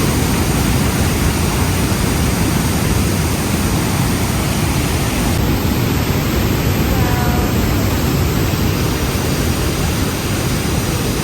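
Steady loud rushing of water, an unbroken noise with no rhythm.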